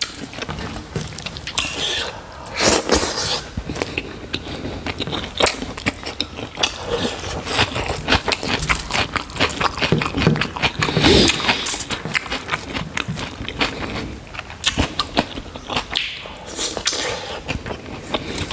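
Close-miked chewing and lip smacking of a person eating rice and pork by hand, with many short wet clicks, mixed with the squish of fingers working rice on a foil-lined tray.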